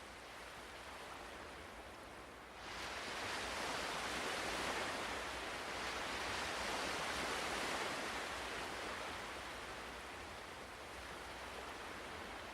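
Ocean waves on a shore: a steady wash of surf that swells suddenly a few seconds in as a wave breaks, stays strong for several seconds, then slowly eases back.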